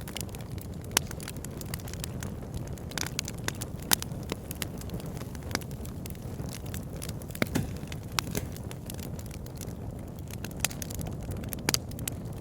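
Wood fire burning in a fireplace: a steady low rumble of flames with irregular sharp crackles and pops, a few of them loud.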